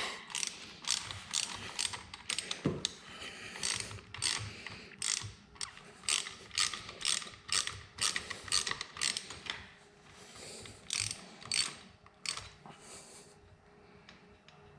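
Hand ratchet clicking in a steady run of short strokes, about two a second, as loosened cylinder head bolts are backed out of a Harley-Davidson Sportster Evolution engine; the clicking stops near the end.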